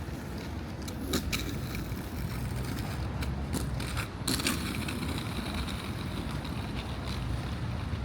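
Rainy outdoor ambience on a walk: a steady low rumble with irregular sharp ticks and crunches, busiest in the first half.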